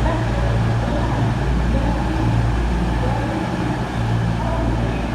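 Class 220 Voyager diesel multiple unit standing in the station with its underfloor diesel engines idling: a steady, loud low hum.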